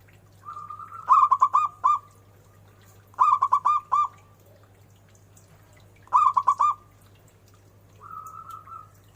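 Zebra dove (perkutut) cooing: three phrases, each a quick run of four or five rapid rolling coos. The first phrase opens with a softer drawn note, and another drawn note starts near the end. A faint steady hum lies underneath.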